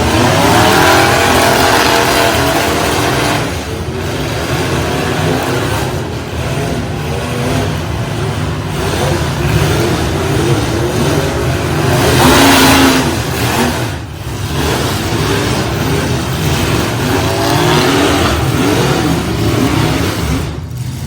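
Engines of demolition derby trucks revving hard, their pitch repeatedly rising and falling.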